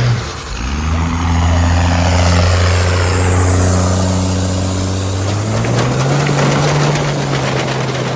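Diesel pickup truck engine running loud with a deep steady drone, its pitch stepping up about six seconds in, with a faint high whine rising slowly over it.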